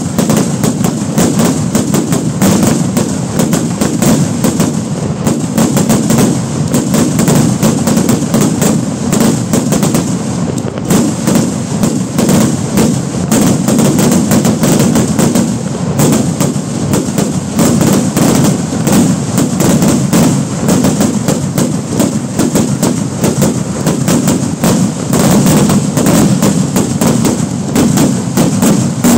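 Kerala vedikettu fireworks going off in an unbroken barrage: bangs too close together to count, running into a continuous crackling rattle with no pause.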